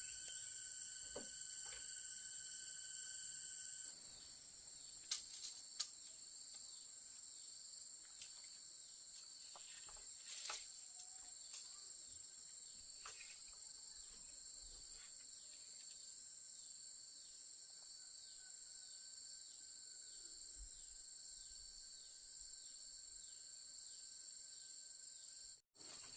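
Steady high-pitched insect chorus in forest ambience, with a second pulsing insect call repeating about twice a second from around the middle on. A few faint clicks sound about five seconds in.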